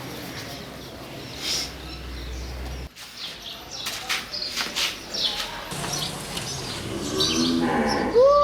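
Many small birds chirping and twittering, with a livestock animal calling near the end.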